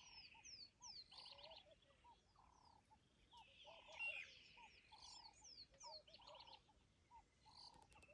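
Faint chorus of wild birds calling: repeated short falling whistles, trills and short rhythmic notes, with a slightly louder burst about four seconds in.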